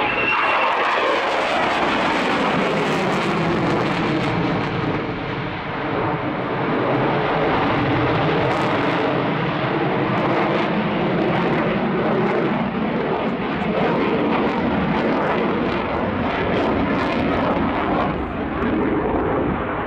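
Swiss Air Force F/A-18 Hornet's twin jet engines, loud and continuous as the fighter flies a low display. A pitch sweeps down in the first second or two.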